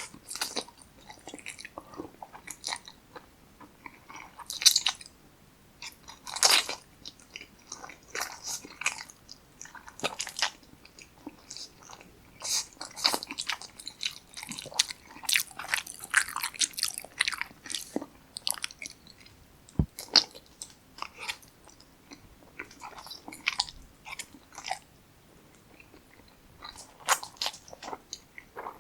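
Close-miked mouth sounds of a person eating Chapagetti black bean noodles and kimchi: wet chewing, smacking and crunching in irregular bursts, with one dull low thump around the middle.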